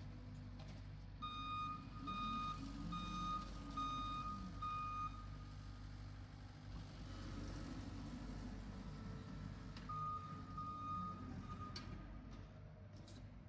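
Back-up alarm on the power-raking machine beeping as it reverses, five beeps about twice a second, then after a pause three more, over the steady low drone of its engine.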